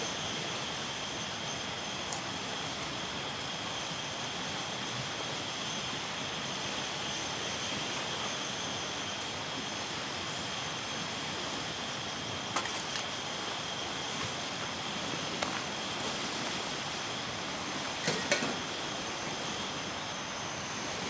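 Steady outdoor background hiss with a faint steady high tone, broken by a few sharp light clicks in the second half.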